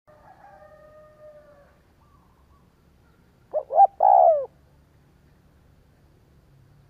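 Spotted dove cooing: one loud three-note call about halfway in, two short coos and then a longer one. Fainter drawn-out tones come in the first two seconds.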